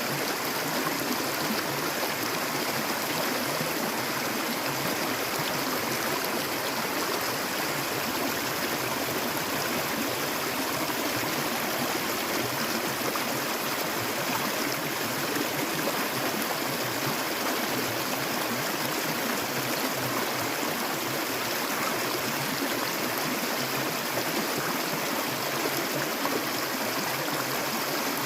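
Clear water flowing steadily, an even, unbroken sound of running water with no pauses or separate splashes.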